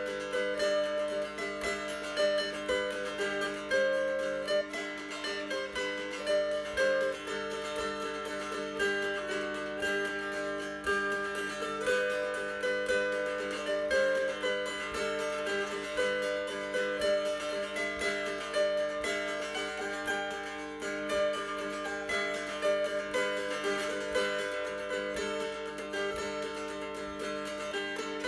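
Mountain dulcimer of tulip poplar with a black walnut fingerboard being played: a strummed melody over steady drone strings, with a mellow, full tone.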